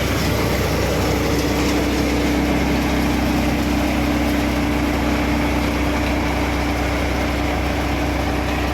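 Tractor engine and heavy farm machinery running steadily and loudly, with a steady hum that sets in about a second in.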